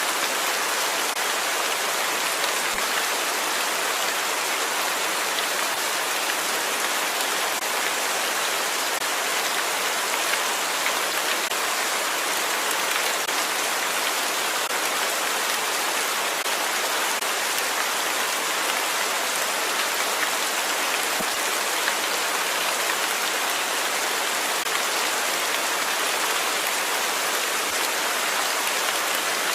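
Steady rain falling and pattering on a surface, a dense even hiss with fine crackle of drops that does not change.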